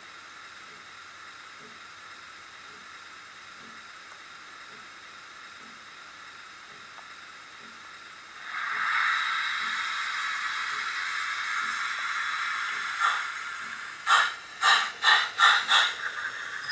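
Steam locomotive sound effects from a Zimo MX648 sound decoder's loudspeaker in an OO-gauge Bachmann 3F Jinty tank engine: a faint steady background with a soft regular beat. Just over halfway through, a loud steam hiss starts and runs for about four seconds. Then comes a string of about six sharp exhaust chuffs.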